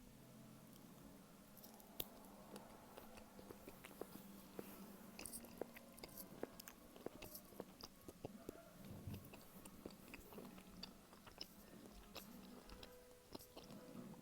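Quiet, close-miked chewing of a pepperoni meat stick, with many small sharp mouth clicks and crackles.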